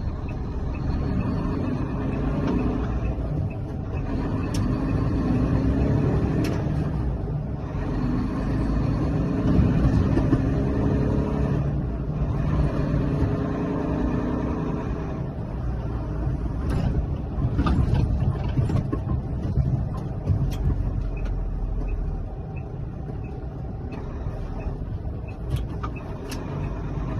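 UD Trucks Quon tractor's GH13 turbo diesel engine running, swelling louder a couple of times and easing off again, with a few sharp clicks.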